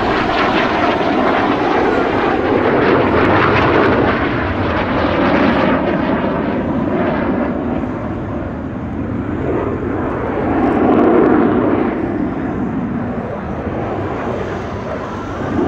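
BAE Hawk T.65A jet trainers, each with a single Adour turbofan, flying a formation display pass: continuous loud jet engine noise that swells and fades, loudest about eleven seconds in.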